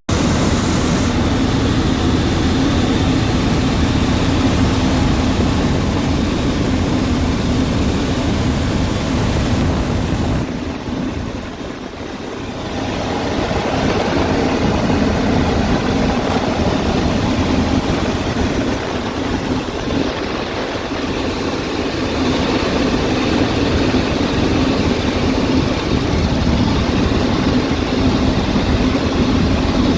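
Helicopter in flight: a steady, dense rumble of rotor and engine noise with a thin high whine over it. It dips briefly about eleven seconds in, then builds back up.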